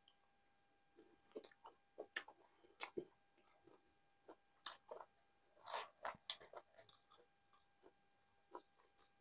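A person chewing a mouthful of nihari and naan, with irregular short wet mouth clicks beginning about a second in.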